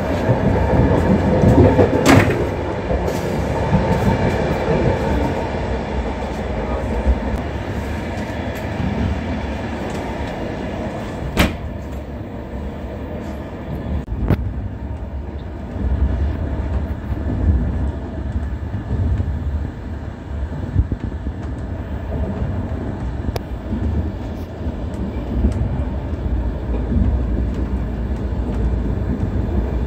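Passenger train running, heard from inside the carriage as a steady low rumble of wheels and car body. A few sharp clicks or knocks stand out, one about two seconds in and two near the middle.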